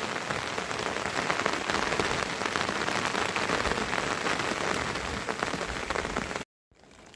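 Steady heavy rain falling on a surface, a dense patter of many drops. It cuts off abruptly about six and a half seconds in.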